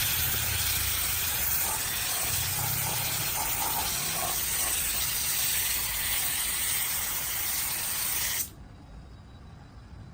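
Steady spraying hiss, cutting off abruptly about eight and a half seconds in.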